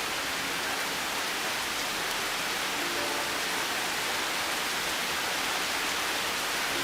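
Steady hiss of falling rain, with a few soft piano notes about three seconds in.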